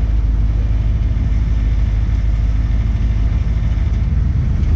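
Steady low rumble of a running vehicle, with no sharp bangs.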